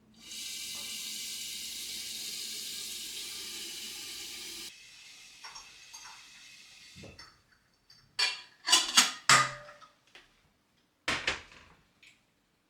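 Kitchen tap running steadily for about four seconds, then shut off abruptly. A few seconds later come several sharp clattering knocks of kitchenware.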